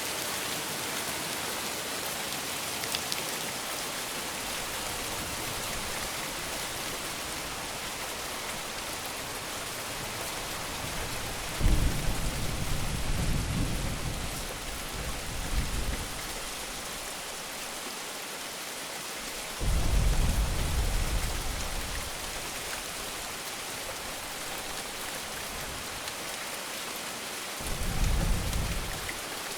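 Steady rain hissing, with three low rolls of thunder that start suddenly about twelve, twenty and twenty-eight seconds in and fade over a few seconds each.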